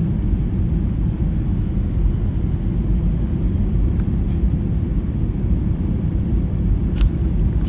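Steady low vehicle rumble, unchanging throughout, with one short click about seven seconds in.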